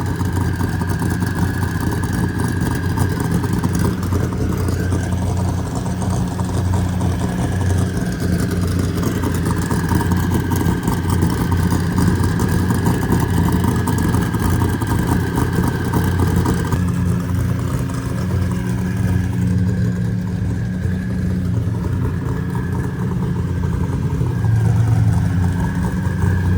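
Car engine idling steadily with a low, even note; the sound changes abruptly about seventeen seconds in.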